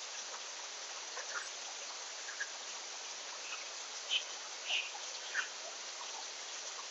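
Summer backyard ambience: a steady high hiss of insects with short, faint chirps and ticks scattered through, three slightly louder chirps a little past the middle.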